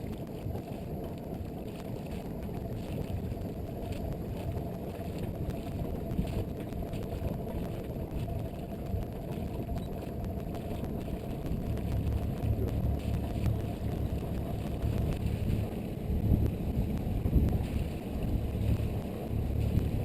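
Yacht under way: a steady low rumble with wind buffeting the microphone, heavier and gustier in the second half.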